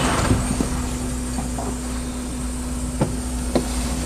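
Steady low drone of a car's running engine and road noise heard inside the cabin, with a couple of faint knocks near the end.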